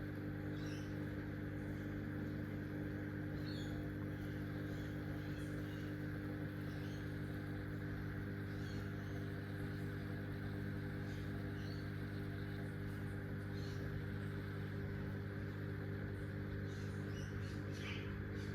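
Steady low hum made of several even tones, with faint, short, high cockatiel chirps scattered throughout.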